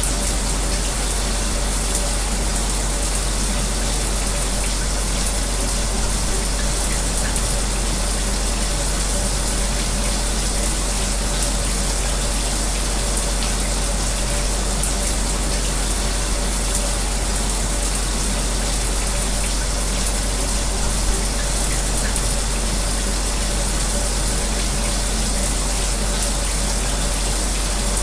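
Shower spray running steadily, mixed with the constant whir of an electric fan with a faint steady hum. An unbroken wash of noise.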